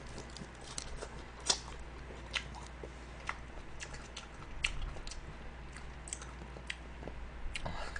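A person chewing a mouthful of salad and fried chicken, with irregular soft crunches and clicks about once a second.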